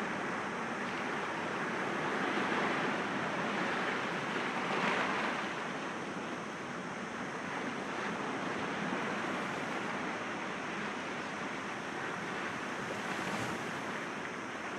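Sea waves washing against rocks, a continuous surf hiss that swells a little in the first few seconds and then settles.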